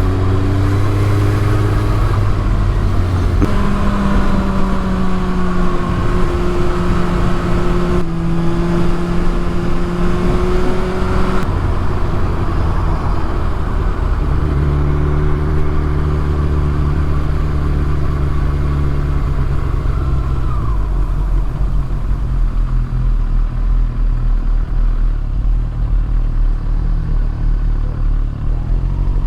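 Kawasaki ZX-6R's inline-four engine running while lane splitting at low speed. Its pitch steps up a few seconds in, drops back around eleven seconds in, rises again briefly and settles low near the end.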